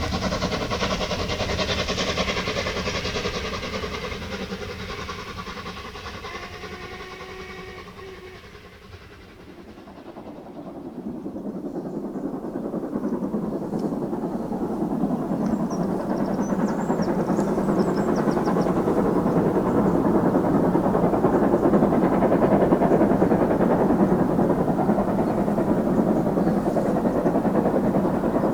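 A train running past and fading away over the first eight seconds or so, then a broad rumble building up again through the rest.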